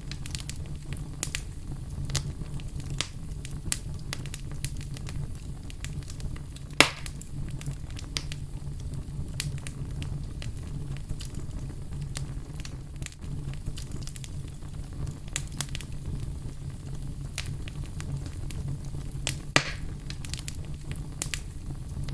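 A fire crackling: scattered sharp crackles and snaps over a steady low rumble, with two louder pops, one about seven seconds in and one near the end.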